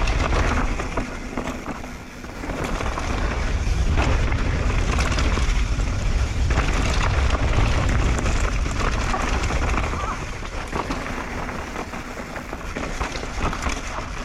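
Wind buffeting the microphone and a mountain bike rattling over a dirt trail during a fast downhill run, with a short lull about two seconds in.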